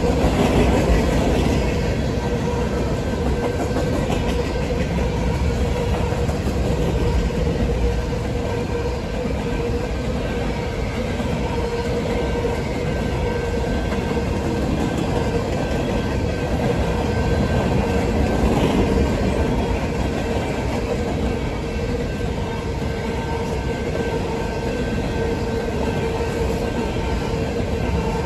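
Freight train of covered hopper cars rolling steadily past, wheels clattering over the rails, with a faint steady tone underneath.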